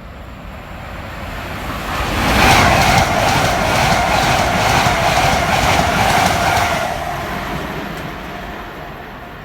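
Passenger train passing through a station non-stop at speed, with a rush of noise and a rapid rhythmic clatter of wheels on the rails. It builds up, is loudest for about five seconds, then fades as it goes away.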